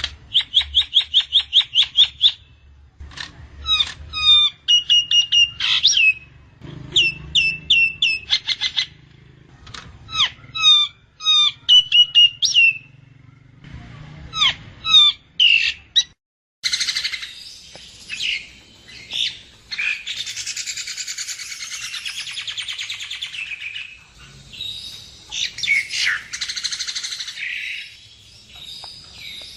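Nias hill myna calling: quick runs of repeated, clear whistled notes. After an abrupt cut about halfway through, a dense, harsh chattering takes over.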